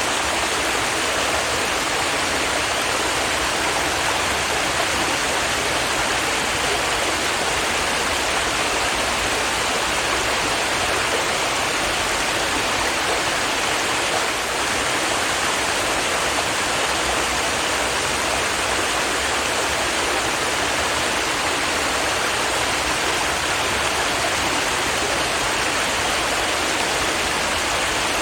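Stream water flowing and babbling over rocks, a steady rushing.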